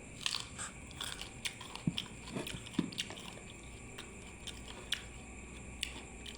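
Close-miked eating sounds: biting and chewing with crisp crunches and small wet clicks of the mouth, at irregular intervals.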